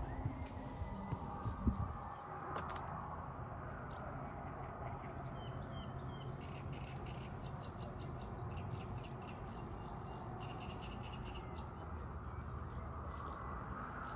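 Outdoor ambience: a steady low background rush with faint bird chirps and tweets scattered through the middle of the stretch.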